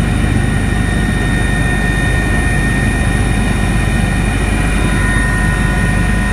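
Army helicopter running steadily in flight, heard from on board: a loud, even rumble of engine and rotor with a steady high whine over it.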